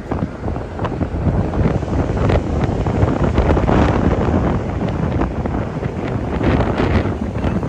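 Wind buffeting the microphone on a ship's open deck: a loud, gusty rush that swells and eases.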